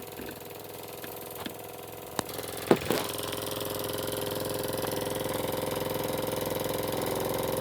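Jensen #70 live steam engine running steadily with a rapid, even beat. A few sharp knocks come about two to three seconds in, after which the running sound is a little louder.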